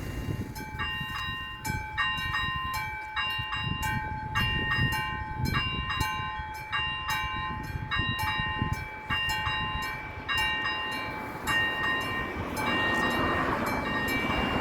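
Railroad crossing warning bells, a classic mechanical bell and an electronic bell, ringing in rapid repeated strokes from about half a second in, signalling that a train is coming. Near the end, the rushing noise of an approaching train builds under the bells.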